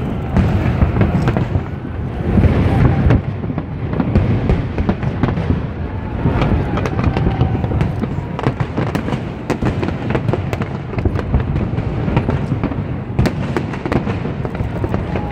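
Fireworks display with many aerial shells bursting close together: a continuous low rumble of bangs with rapid crackling on top.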